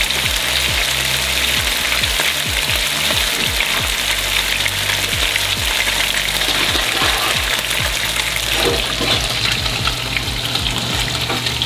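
Panko-breaded snapper fillets shallow-frying in hot oil in a pan: a steady sizzling hiss.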